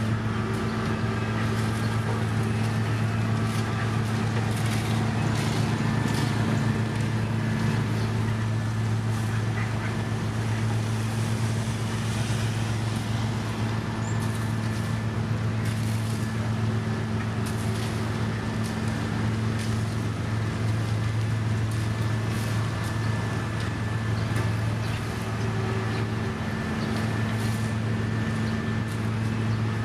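Heavy diesel construction machinery running at a steady, even engine speed, with a low drone and faint scattered clicks.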